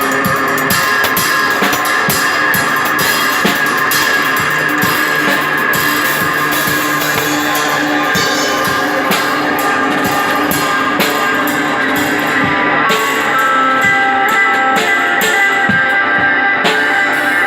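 Live psychedelic rock played by electric guitar and drum kit: an instrumental passage with sustained guitar chords over steady drumming and frequent cymbal hits.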